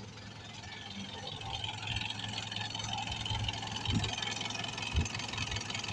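Freshly overhauled 2.5-litre four-cylinder diesel engine of a Mitsubishi Pajero Sport idling steadily, with two short low thumps about four and five seconds in.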